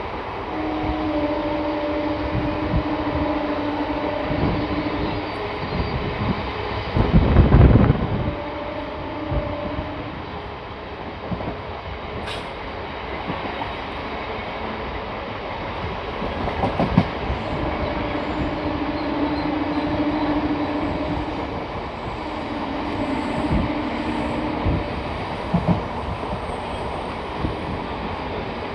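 Express passenger train running, heard from inside a coach: a steady rumble of wheels on the track with scattered rail-joint clicks and a held two-note wheel squeal that comes and goes. A brief loud low rush about seven seconds in is the loudest moment.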